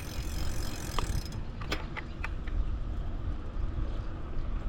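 Bicycle clicking mechanically four or five times between about one and two and a half seconds in, over a steady low rumble.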